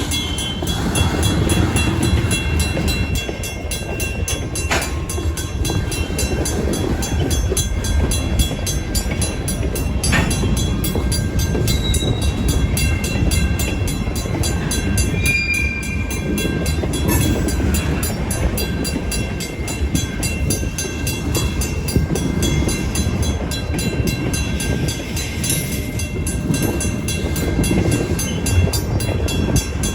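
Freight cars being shoved slowly through a grade crossing, their wheels rumbling over the rails with a few sharp clanks, while the crossing's WCH mechanical bell rings steadily.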